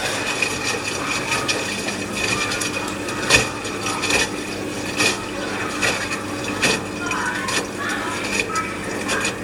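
LG washing machine running a wash cycle: the drum turns wet laundry through water with a steady hum and faint whine, and irregular knocks as the load drops.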